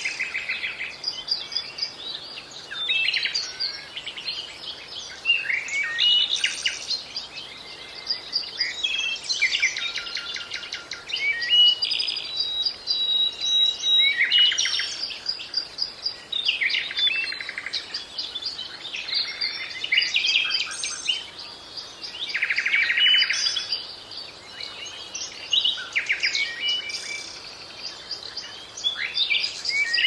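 Birds calling in the trees: a steady stream of high chirps and whistles, broken by fast rattling trills every few seconds.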